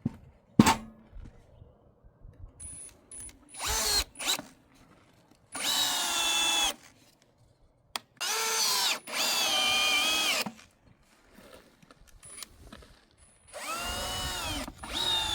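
Power drill run in about five short bursts, each spinning up to a steady whine and winding down as the trigger is released, with a sharp click about half a second in.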